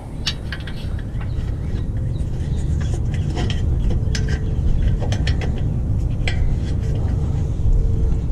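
Light metallic clicks and clinks of a wire retaining clip being worked into a hole on a mower deck's linkage, over a steady low rumble.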